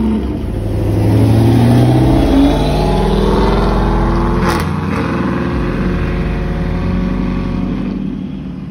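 Chevrolet Camaro accelerating hard away, its engine revving up and climbing in pitch, dropping about two and a half seconds in as it shifts, then holding and fading as the car pulls off down the road. A sharp crack about four and a half seconds in.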